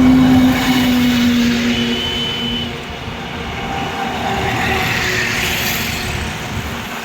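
Heavy diesel trucks running in slow highway traffic: a dense engine rumble with a steady drone that fades out about two seconds in.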